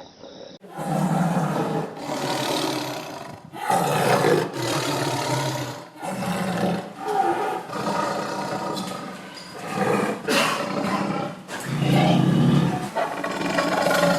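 A large animal calling loudly, a run of harsh, low calls each a second or two long with short breaks between.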